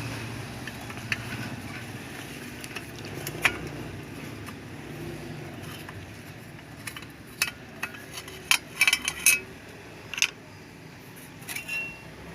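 Small metal parts clicking and clinking as an electric iron is taken apart with a screwdriver: scattered clicks, then a quick run of louder, slightly ringing clinks about two-thirds of the way through. A steady low hum lies underneath.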